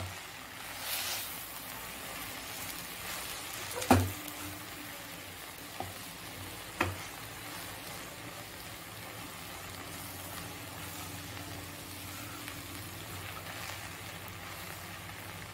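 Drumstick leaves and coarse ground dal powder sizzling in a kadai as a wooden spatula stirs them, a steady frying hiss. A sharp knock comes about four seconds in, and lighter taps come near six and seven seconds.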